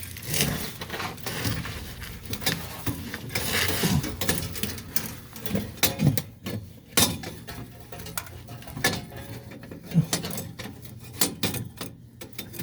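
Handling noise from fitting a thermocouple's tube back into a boiler burner assembly: scattered light metallic clicks, taps and scraping as the tube and metal parts are worked into place.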